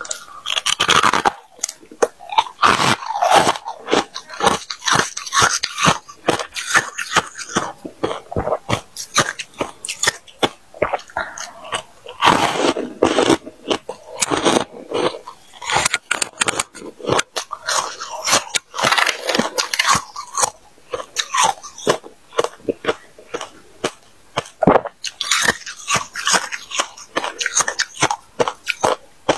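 Close-up crunching of freezer frost ice being bitten and chewed, with dense, irregular crunches and short pauses between mouthfuls.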